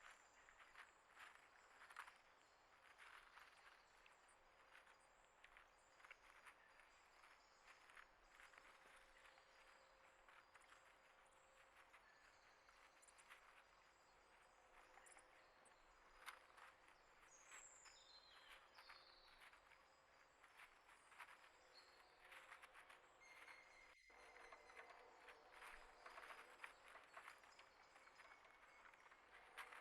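Faint outdoor ambience of frequent small ticks and scratches, with a few brief high bird chirps a little past the middle.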